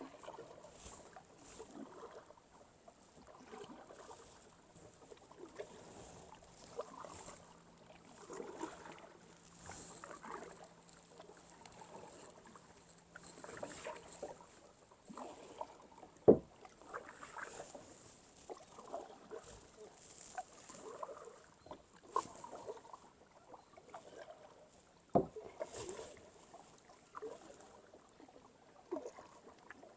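Kayak paddle strokes dipping and swishing through the water, roughly one a second, with two sharp knocks, one about halfway through and another near three-quarters of the way.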